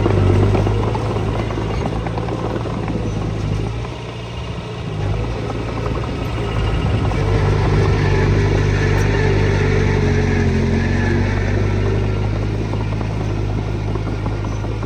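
Diesel engine of heavy earthmoving machinery running steadily, with a clattering mechanical rattle over the engine note. The sound dips briefly about four seconds in and then builds back up.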